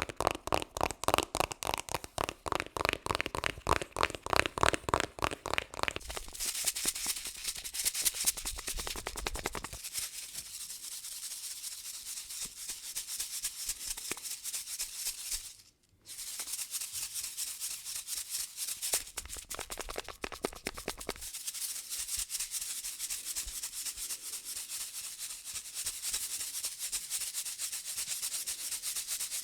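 Close-miked ASMR trigger sounds: quick, regular strokes at first, then rapid scratching and rubbing on a surface for the rest of the time, broken by a brief silent cut about sixteen seconds in.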